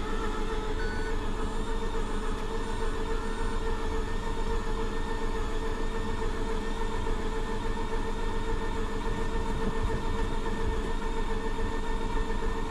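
Starter motor spinning strongly and steadily, cranking a 2004 Mazda RX-8's 13B rotary engine that does not fire. It almost wants to catch but does not start.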